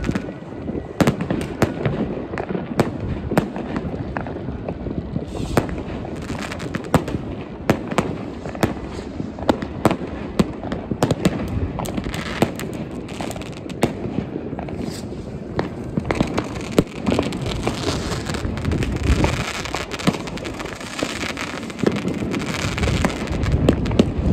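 New Year's Eve fireworks going off without pause: many sharp bangs and cracks from firework batteries, rockets and bangers over a steady rumble of further explosions and crackling.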